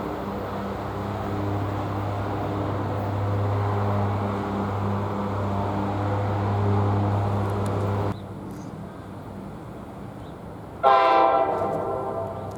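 An NJ Transit train running with a steady low hum that cuts off abruptly about eight seconds in. Near the end a train horn sounds one short blast that fades away.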